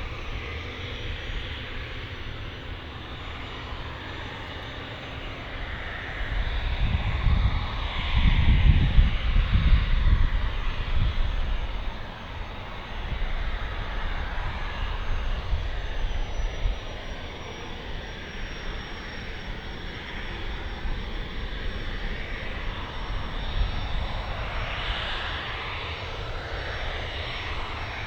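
Fixed-wing aircraft's engines at takeoff power on the departure roll, with a deep rumble that swells to its loudest about eight to eleven seconds in, then settles to a lower, steady noise as it moves away.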